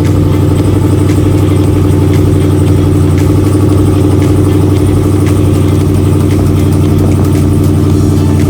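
Ram Power Wagon pickup's V8 idling steadily, heard through a 5-inch stainless exhaust tip with a custom resonator.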